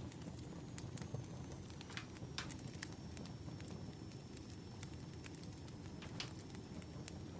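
Burning firewood crackling: scattered sharp pops at irregular intervals over a steady low rumble.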